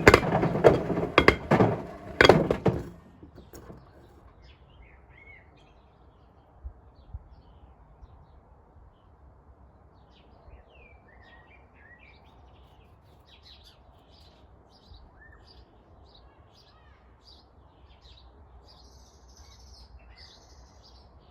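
A few loud clattering knocks in the first three seconds, then a quiet stretch of low steady background with birds chirping now and then from about ten seconds in. The washing machine's drum sits still in a long pause mid-wash.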